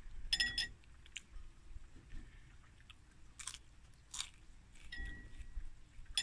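A person chewing food, with a metal spoon clinking against a ceramic bowl with a short ring near the start and again about five seconds in.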